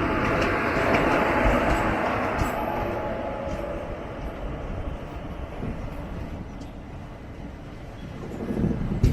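Running noise of a moving passenger express train, heard from its coach: a loud, even rush that fades after about three seconds, with a few low wheel knocks near the end.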